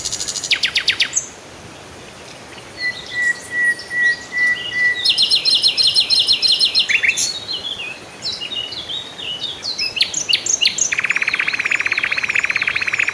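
Several songbirds calling and singing in turn: quick series of chirps, a thin steady whistle, then from about eleven seconds in a long, very fast trill with swooping whistled notes above it.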